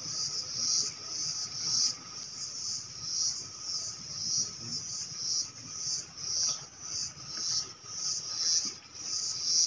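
Insects chirring high-pitched in a steady pulsing rhythm, a little over one pulse a second.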